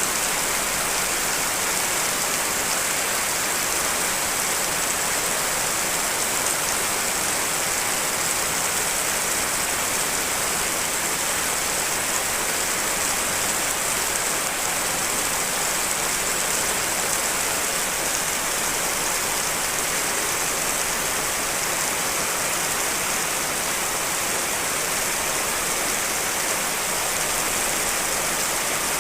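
Steady rain, a dense even hiss of falling drops with no single drops or thunder standing out, layered from several rain recordings.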